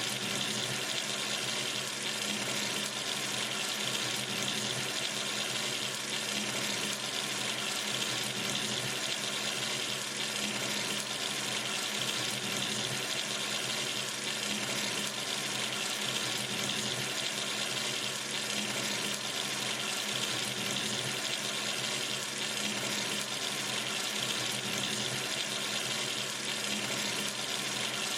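Water running steadily from a sink tap, a constant splashing rush with no change.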